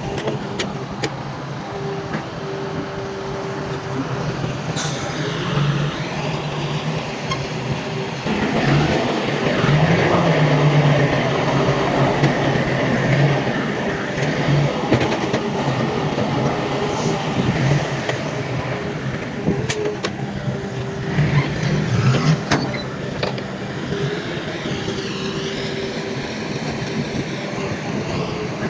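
Heavy diesel earthmoving machinery running, its engine growing louder for several seconds about eight seconds in, with a few sharp metallic clanks.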